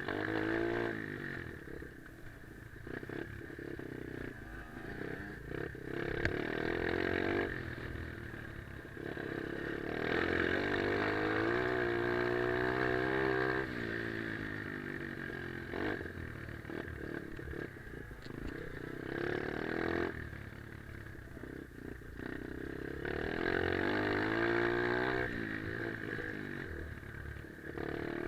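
Pit bike engine being ridden hard around a dirt track, revving up and dropping back again and again as the rider accelerates, shifts and brakes into corners.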